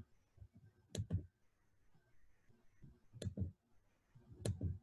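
A hardcover picture book being handled and opened: four short clicks with soft knocks, two close together about a second in, then one after three seconds and one near the end.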